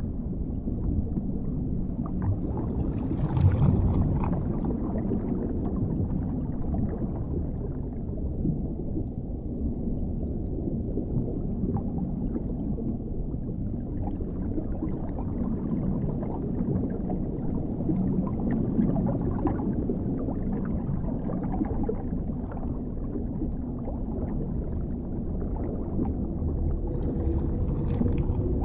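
Underwater ambience: a continuous muffled low rumble with no clear pitch, swelling briefly about three and a half seconds in.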